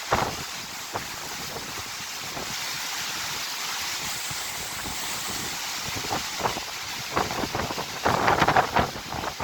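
Strong storm wind gusting, swelling in the middle, with wind buffeting the microphone. Short crackling bursts come through it, with a loud cluster about eight seconds in.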